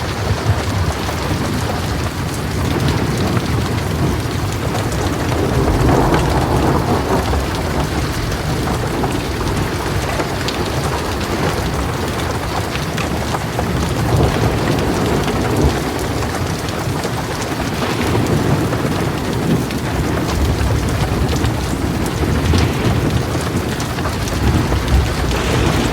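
Heavy rain pouring steadily on surfaces, with distant rolling thunder rumbling low beneath it and swelling about a quarter of the way through.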